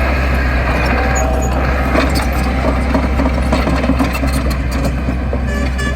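Heavy diesel earthmoving machine running steadily at a low, even engine note, with scattered light clanks and clicks over it.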